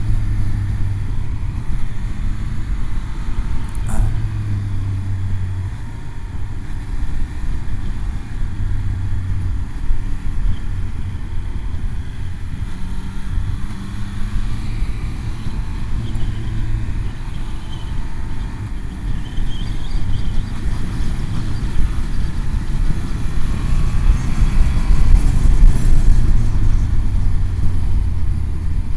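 Motorcycle engine running under way along twisting road, its note shifting up and down through the bends, over a heavy low rumble of wind on the microphone. It gets louder near the end.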